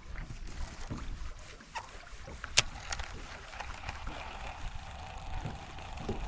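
Low rumble of wind on the microphone aboard a fishing boat, with scattered small knocks and a sharp click about two and a half seconds in. A faint steady hum comes in during the second half.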